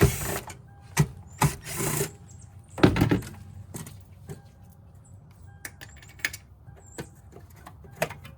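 Irregular clicks, knocks and short clattering bursts of hand tools and parts being handled, louder in the first three seconds, then sparser, lighter ticks.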